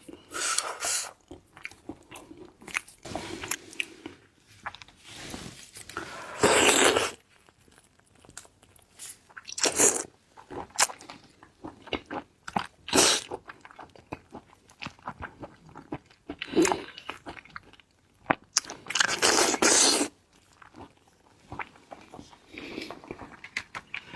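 Close-miked ASMR eating: a person biting and chewing seafood, with irregular bursts of crunching and wet mouth clicks separated by short pauses.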